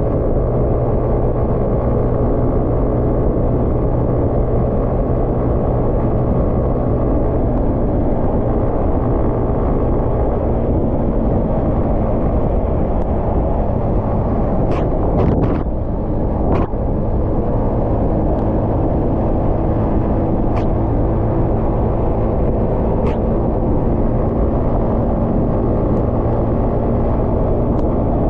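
150cc motorcycle engine running at a steady speed on the move, its steady hum mixed with a dense rush of wind and road noise. A few short clicks sound about halfway through.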